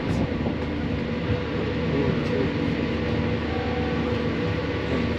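Pikes Peak Cog Railway train running steadily on the climb: a constant mechanical rumble with a steady hum.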